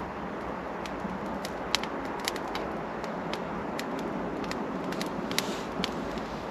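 Wood fire crackling, with about a dozen sharp, irregular pops over a steady hiss.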